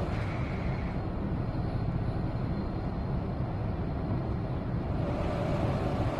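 Seoul Metro Line 2 subway train running between stations, heard from inside the carriage: a steady rumble of wheels on rails, with a faint whine that fades about a second in and comes back near the end.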